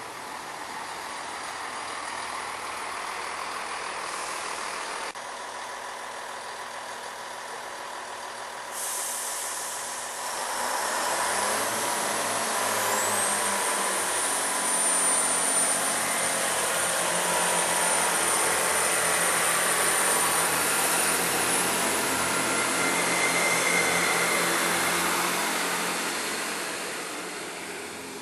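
A train running past close by, its noise swelling and then fading, with a long high-pitched squeal in the middle of the pass.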